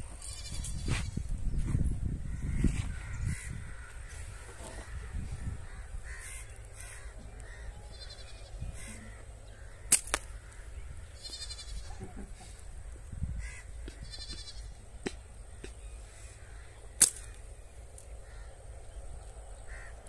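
Birds calling in short, rippling bursts over a low wind rumble on the microphone, which is strongest in the first few seconds. Two sharp snaps stand out, about ten seconds in and again near the end.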